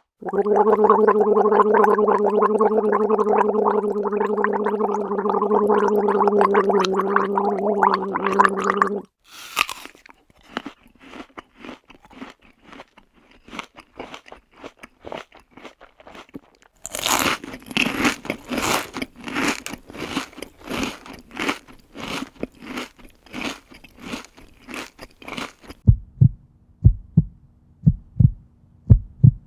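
A run of stock Final Cut Pro sound effects played one after another. First comes a steady buzzing tone that cuts off after about nine seconds. Then come scattered crunching clicks, which turn into a denser crunching about halfway through, and near the end a series of evenly spaced low thumps.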